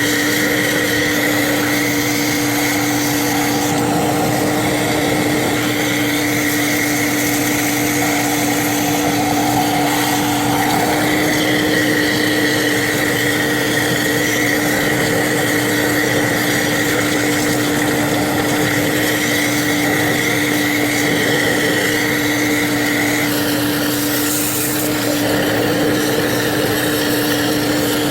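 A motor running steadily, with a constant whine that holds the same pitch throughout.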